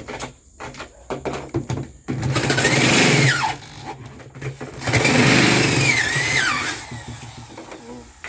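Electric drill run in two bursts of about one and a half to two seconds each, its motor whine dipping and rising in pitch as a widening bit cuts into the fridge's plastic liner and foam, with small handling knocks between the bursts.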